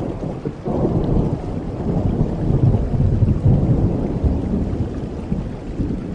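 Thunder rolling over steady rain: a deep rumble swells about a second in, peaks in the middle, and slowly fades.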